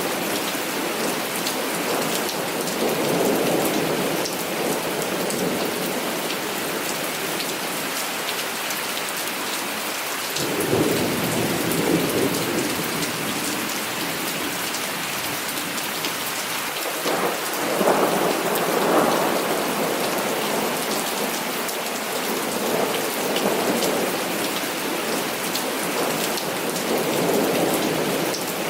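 Heavy rain falling steadily, with thunder rumbling again and again over it. The two strongest peals break sharply about ten seconds in and again near seventeen seconds.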